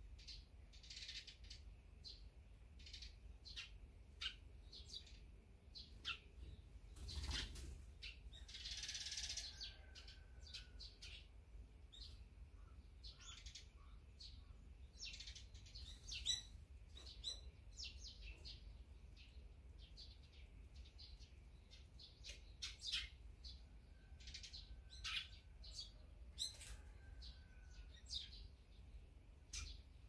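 Small wild birds at a feeder chirping in many short, high calls. A brief rustling burst about seven seconds in is the loudest sound.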